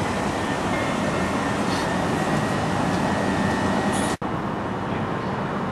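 Passenger train running past, a steady rumble with a thin high whine. The sound drops out for an instant about four seconds in, and the whine is gone afterwards.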